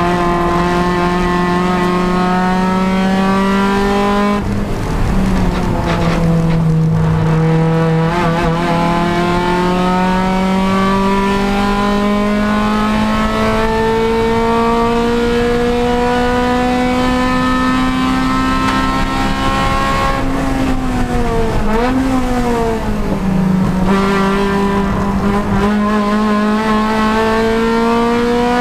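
Honda Civic Si race car's engine running hard at racing speed. Its pitch climbs slowly through each gear and drops sharply at upshifts about four and eight seconds in. Around twenty-two seconds in it dips and wavers briefly, as when braking and downshifting for a corner, then climbs again.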